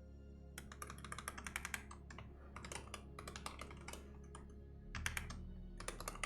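Computer keyboard typing in several quick bursts of keystrokes with short pauses between them.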